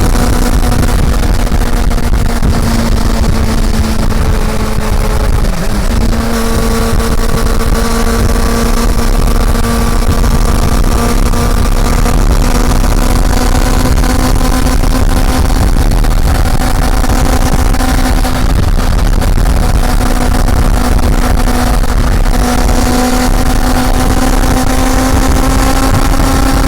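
Honda CB400 Super Four inline-four engine running at steady high revs under way, heard from on board. The note dips briefly about five and a half seconds in, as with a quick gearshift, then holds again, sagging slightly and rising back near the end. A heavy low rumble of wind on the microphone runs underneath.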